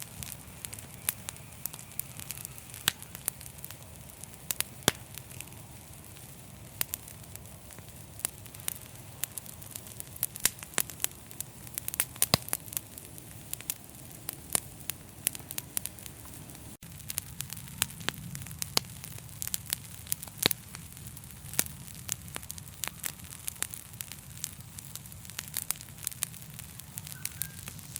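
Fireplace fire crackling, with frequent sharp irregular pops and snaps over a steady low rumble of flame.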